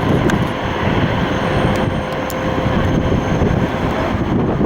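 Jet airliner engines, a loud steady rumble.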